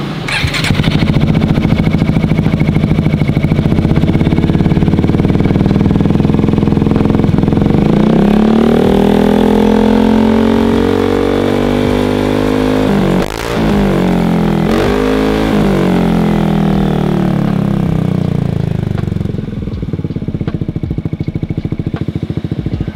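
Yamaha XMAX scooter's single-cylinder four-stroke engine running through a freshly fitted Daytona Slash aftermarket exhaust. It idles, is revved up and held higher for a few seconds around the middle, gets two short blips, then settles back to idle near the end.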